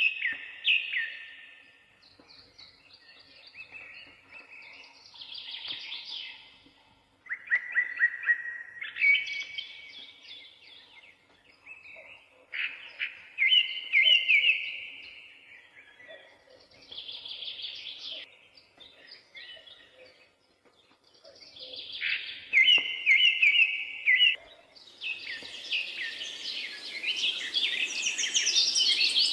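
Parakeets chirping and warbling in bursts a few seconds long with short pauses between. Near the end the calling thickens into a continuous, higher chatter.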